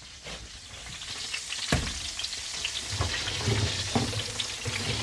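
Food frying and sizzling, a steady crackle dotted with small pops, rising over the first second, with a single sharp knock just under two seconds in.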